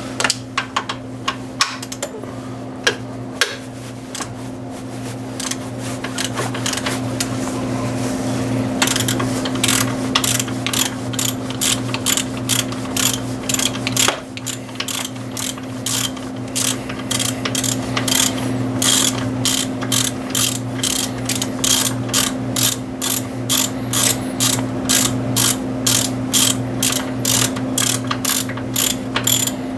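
Hand ratchet wrench clicking as a bolt is backed out while removing the alternator, the clicks scattered at first and then settling into a steady run of a few per second. A steady low hum runs underneath.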